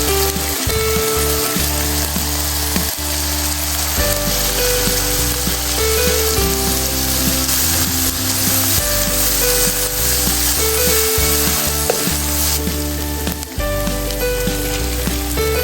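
Food sizzling as it fries in oil in a pan, a steady hiss throughout. Background music with held notes and a changing bass line plays over it.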